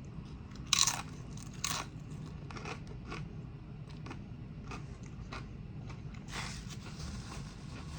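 Close-up eating sounds: tortilla chips crunching between the teeth, two loud bites about a second apart near the start, then softer crunchy chewing.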